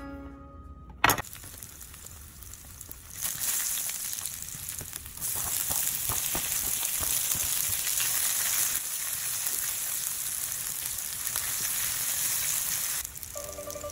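Garlic, ginger and sliced onion frying in oil in a nonstick pan, a steady sizzle that grows louder about five seconds in as the onions go in, with a spatula stirring near the end. A sharp click comes about a second in.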